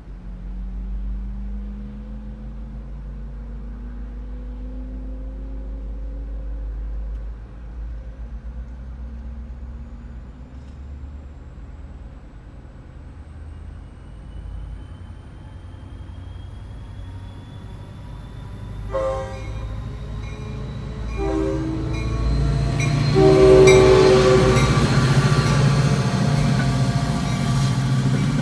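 NJ Transit GP40PH-2B diesel locomotive, its EMD 16-cylinder two-stroke engine throttling up as it pulls out of the station, the engine note rising over the first several seconds with a slowly rising whine above it. From about 19 seconds in the train horn sounds in several blasts, and the train grows louder as it nears, loudest about 23 seconds in.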